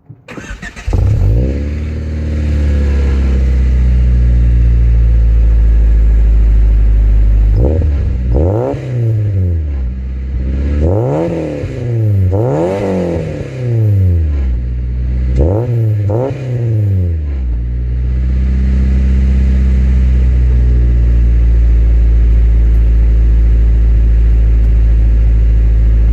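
Car engine started: a short crank catches about a second in and flares up before settling to idle. About eight seconds in the throttle is blipped several times, the pitch rising and falling, then it drops back to a steady idle. The exhaust is newly reconnected and bolted up, and sounds rather quiet.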